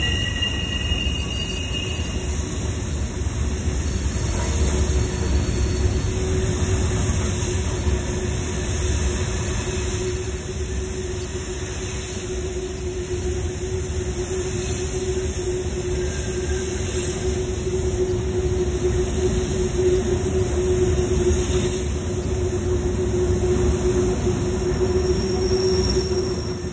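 CSX freight train's cars rolling past on curved track: a steady low rumble of steel wheels on rail. A high wheel squeal sounds in the first two seconds, and a steady lower squealing tone runs from about four seconds in, typical of wheel flanges grinding on the curve.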